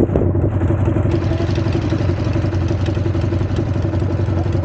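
Harley-Davidson V-twin motorcycle engine running steadily at an even pitch.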